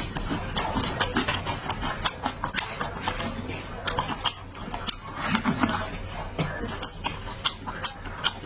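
Close-up eating sounds: chewing and wet mouth-smacking, with irregular sharp clicks several times a second.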